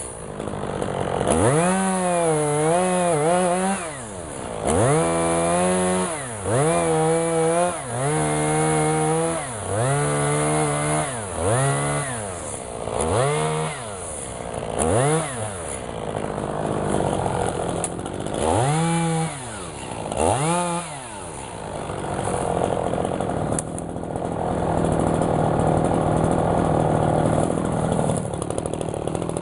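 Two-stroke chainsaw revved hard and let off again and again, each burst rising and falling in pitch over a second or two. Near the end it runs more steadily.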